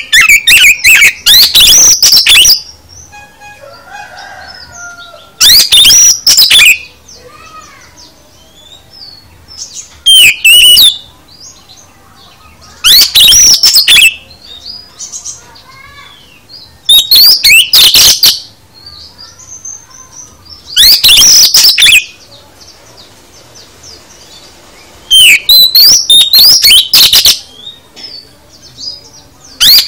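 Oriental magpie-robin (kacer) singing: loud, shrill bursts of fast varied whistles, each about one to two seconds long, repeating every three to four seconds, with softer twittering between them.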